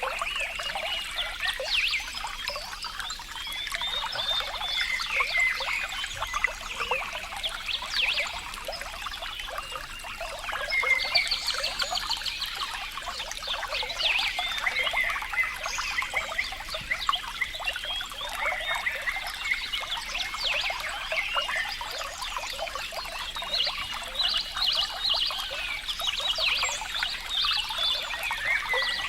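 Small stream of water trickling and splashing, a dense, steady patter of little splashes with no low rumble.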